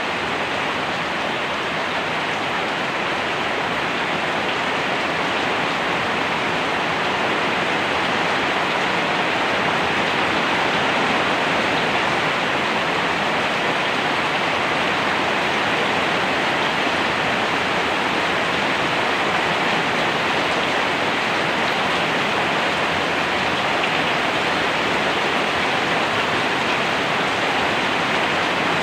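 Steady rain falling, an even unbroken hiss of rainfall with no breaks.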